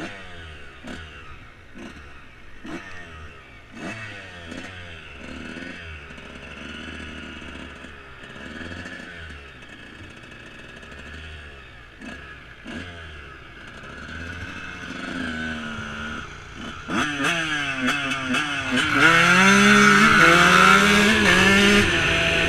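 Dirt bike engine revving up and down repeatedly as it is ridden, with frequent knocks and clatter. About seventeen seconds in it gets louder and revs higher.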